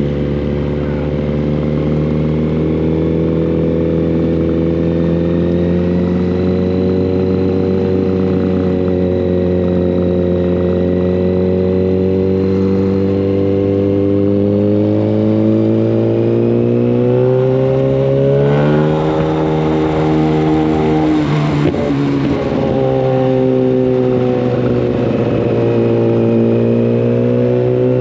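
Yamaha FZ1 Fazer's inline-four engine, running loud through a Mivv GP exhaust with the dB killer removed, ridden under steady throttle with the revs slowly climbing. About two-thirds of the way in the pitch steps up and there is a short burst of rougher noise, after which the engine holds a steady note again.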